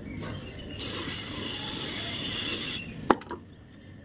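WD-40 aerosol can spraying in a steady hiss for about two seconds onto a worn wheel bearing being cleaned, followed by a sharp metallic click and a smaller one.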